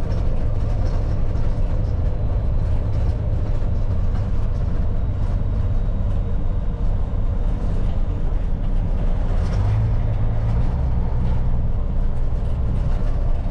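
Grain truck driving, heard from inside the cab: a steady low engine drone with road noise. The engine note grows stronger for a couple of seconds around ten seconds in.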